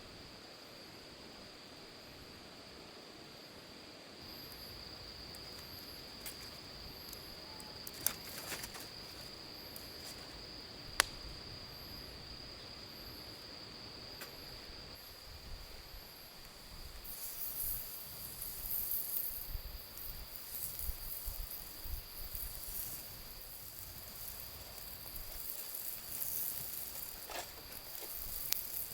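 Crickets chirring in one steady high trill. Two sharp clicks come a third of the way in, and from a little past halfway a crackling sizzle joins in.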